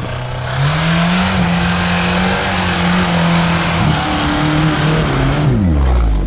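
Off-road vehicle's engine pulling hard at high revs, with a loud rush of noise over it, the revs rising about half a second in and falling away near the end.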